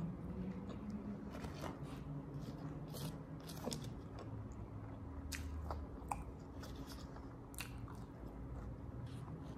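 Fried chicken and fries being eaten: chewing and biting, with scattered short crisp crackles.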